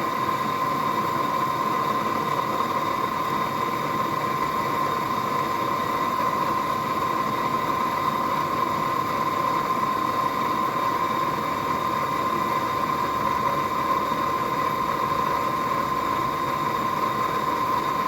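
Forge running: a steady rushing of air with a constant high whine, with no hammer blows.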